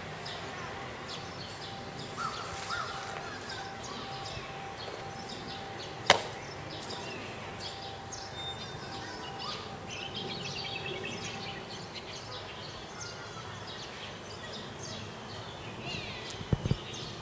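Small birds chirping over a steady outdoor background hum. One sharp crack about six seconds in, and two quick low thumps near the end.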